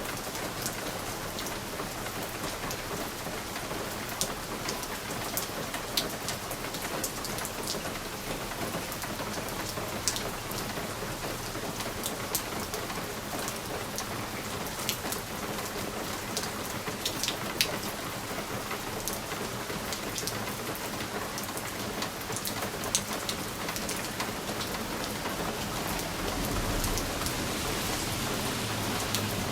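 Steady rain pattering on a window pane, with scattered sharp drop ticks. A low rumble swells near the end.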